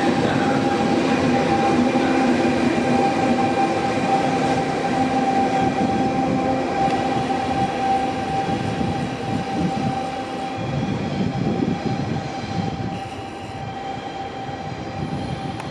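A train at a station platform: a steady high electric whine over the low rumble of the train, growing quieter about ten seconds in.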